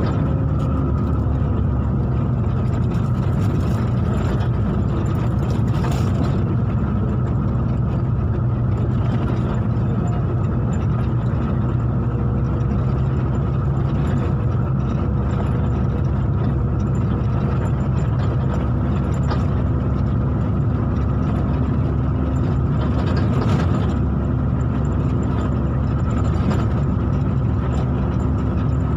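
Motor vehicle engine running steadily with road noise: a continuous low hum that holds an even level throughout.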